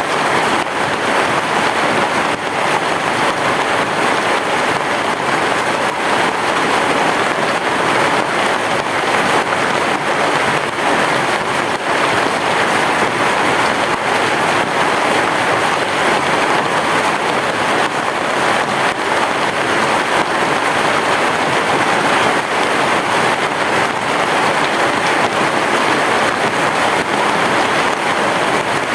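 Heavy rain falling steadily on a roof, a dense even patter with no thunder standing out.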